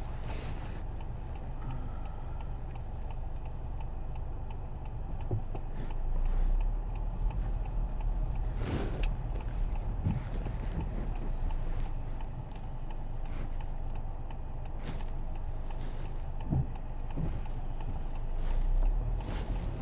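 Inside a moving car on a snowy road: a steady low rumble of the engine and tyres, with frequent light ticks over it. The rumble swells louder twice, about six seconds in and near the end.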